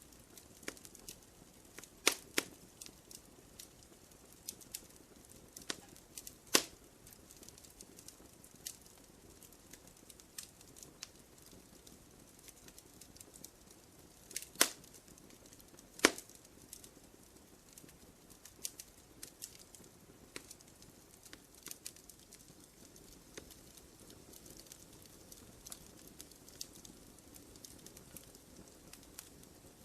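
Wood fire crackling in a fireplace: irregular small pops and snaps over a soft hiss. A few sharper, louder snaps stand out, about two, six and a half, fourteen and sixteen seconds in.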